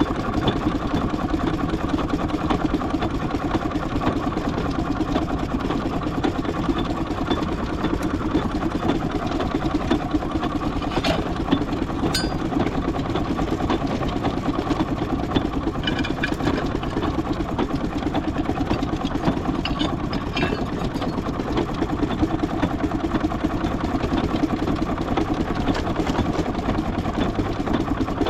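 Large steam engine running steadily on the move, its mechanical beat even and unbroken, with a few short sharp metallic clanks and brief squeaks near the middle.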